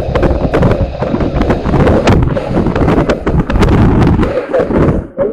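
Loud, continuous rumbling with a rapid, irregular run of short knocks and thumps.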